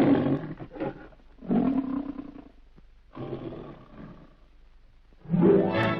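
A lion roaring three times, each roar fading out, the studio lion roar of the MGM cartoon opening. Orchestral music with strings starts about five seconds in.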